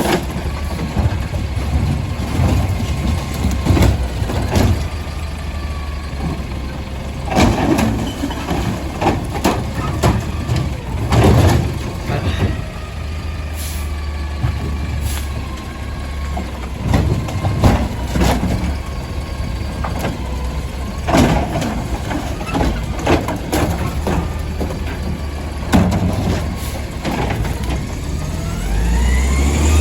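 Garbage truck engine running steadily while frozen recycling bins are slammed against the truck to knock the frozen contents loose, a loud bang every few seconds.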